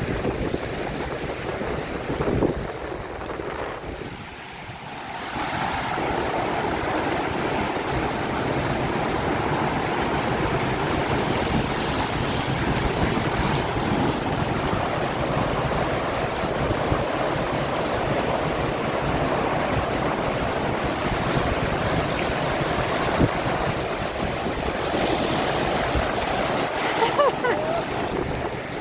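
Steady rush of water pouring down a waterfall, easing briefly about four seconds in.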